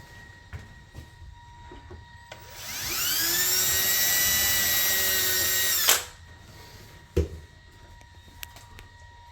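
Power drill spinning up with a rising whine, running steadily for about three seconds, then stopping sharply; a single knock follows about a second later.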